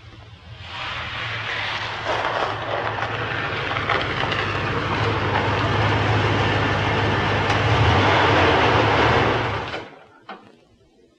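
1978 Chevrolet Camaro Z28's 350 V8 engine running as the car pulls up close, growing louder with a deep steady note. It is switched off near the end and the sound stops abruptly, followed by a single click.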